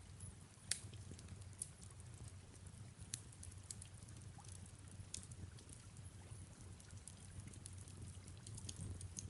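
Faint fireplace crackling, with irregular sharp pops and snaps (the loudest a little under a second in), over a low steady rumble and soft rain.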